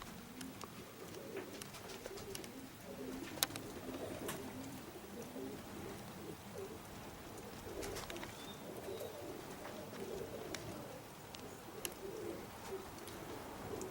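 Domestic pigeons cooing over and over in low, repeated phrases, with a few sharp clicks heard now and then.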